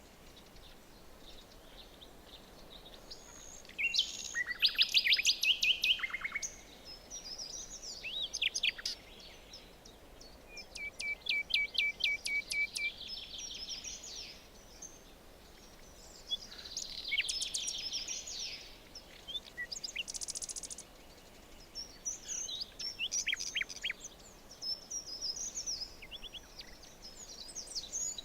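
Songbirds singing in a forest: phrases come and go, several of them a trill of quickly repeated notes, over a faint steady background hiss.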